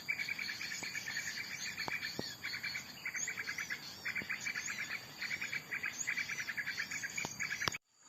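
Small birds chirping in short arching high notes over a fast, pulsing insect-like trill, repeated in groups; the sound cuts off abruptly near the end.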